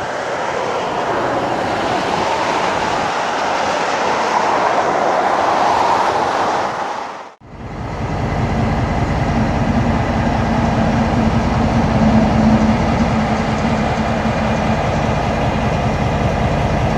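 Freight cars rolling past on jointed track with a steady rushing wheel-on-rail noise. After a cut about seven seconds in, a diesel switcher locomotive's engine drones low and steady as the train goes by.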